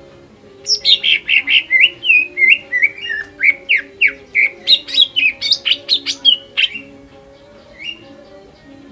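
Greater green leafbird (cucak ijo) singing a fast, loud run of varied whistled and chattering notes for about six seconds, then a single short rising call near the end.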